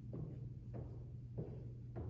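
Stylus tapping and writing on an iPad screen: about five short, irregularly spaced taps over a steady low hum.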